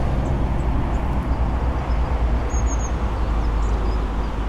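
Steady low outdoor rumble with a faint hiss above it, and three quick high bird chirps about halfway through.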